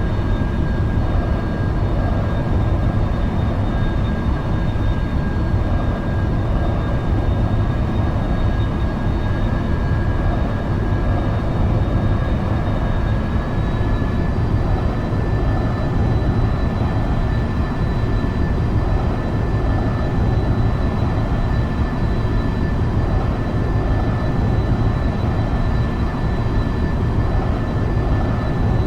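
Boeing 787-9 Dreamliner's jet engines running steadily in climb: a dense rumble with a high whine that rises slightly in pitch about halfway through.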